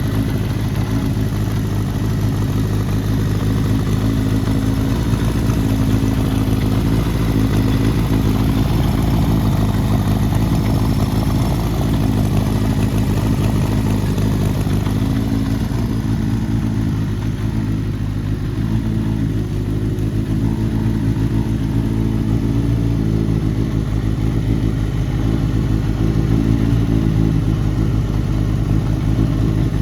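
Kawasaki Z750GP's air-cooled 738 cc inline-four, fitted with CR carburetors and an aftermarket exhaust, idling steadily.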